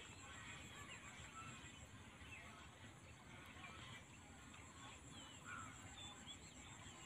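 Faint outdoor ambience: scattered short bird chirps over a steady high-pitched whine.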